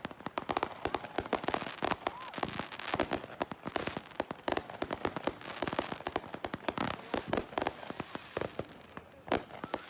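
Fireworks crackling and popping: a rapid, irregular run of many sharp cracks that thins out near the end.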